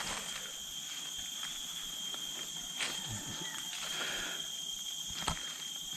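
Steady high-pitched chorus of forest insects such as crickets, with a few faint scattered clicks and rustles in the undergrowth.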